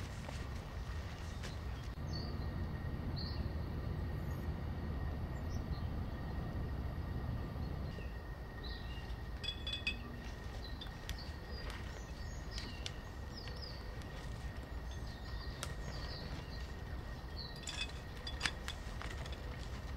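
Outdoor ambience: short bird chirps now and then over a steady low rumble, with a thin steady tone in the background and a couple of sharp clicks, one about halfway and one near the end.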